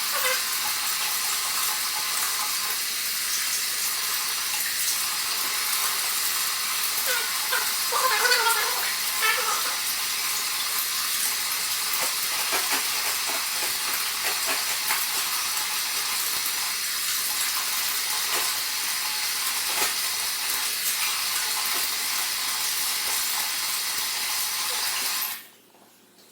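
Water running steadily from a sink tap, a constant hiss that cuts off abruptly about 25 seconds in.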